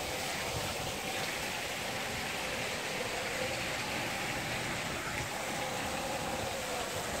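Steady rushing of hurricane wind and driving rain, even and unbroken throughout.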